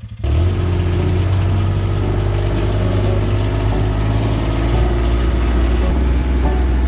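Off-road vehicle engine running steadily under way, with a strong low drone. It jumps up in loudness just after the start.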